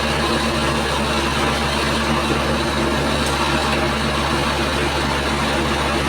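Heavy engine of road-paving machinery running steadily at a constant speed, a low hum under a broad mechanical noise.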